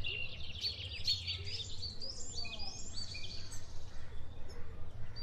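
Several birds chirping and singing at once, a dense run of short, quick up-and-down notes, over a steady low background rumble.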